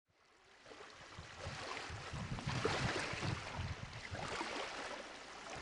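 Small motorboat under way: gusty wind on the microphone and rushing water. The sound fades in a little under a second in, with no clear engine note standing out.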